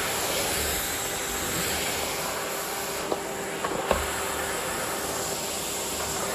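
Miele vacuum cleaner running steadily, a constant hum and hiss, with a few short knocks a little past the middle.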